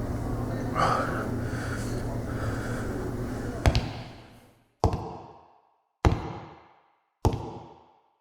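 Steady low background rumble, then from a little past halfway a series of sharp hits, about one every 1.2 seconds, each dying away in a ringing tail into silence.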